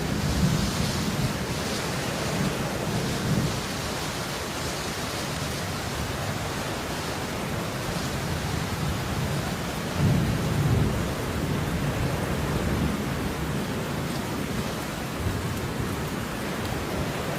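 Steady falling rain, an even hiss. Low rumbles swell up in the first few seconds and again about ten seconds in.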